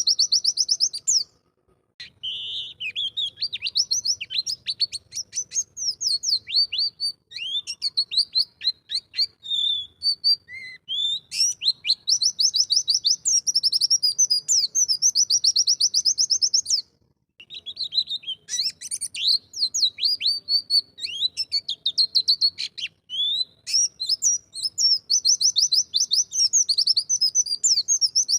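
White-eye (pleci) singing: long, fast, high-pitched trills and rapid twittering note runs, with short pauses a little over a second in and again about halfway through.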